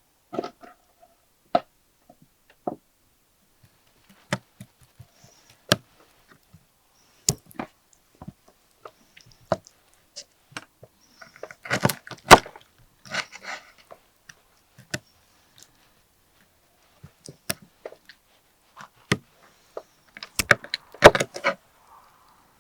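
Irregular clicks, knocks and clatter of objects being handled, with two denser bursts of clatter: one about halfway through and another near the end.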